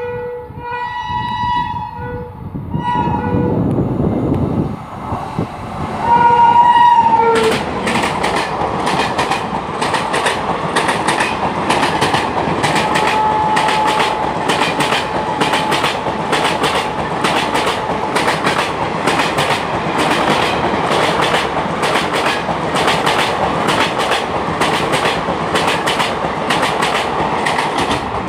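Indian Railways superfast express train passing at speed: the locomotive's horn sounds in several blasts over the first seven seconds, the loudest about six seconds in, as the locomotive rumbles up. Then the coaches rush past with a fast, steady clickety-clack of wheels over the rail joints.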